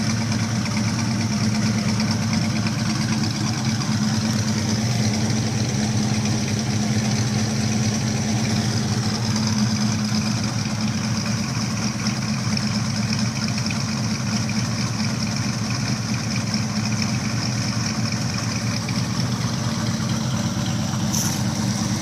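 Chevelle SS's freshly built big-block Chevrolet V8, dressed as a stock 396, idling steadily on its first start-up. It has a hydraulic roller cam and a Holley 880 carburettor, and exhales through factory exhaust manifolds.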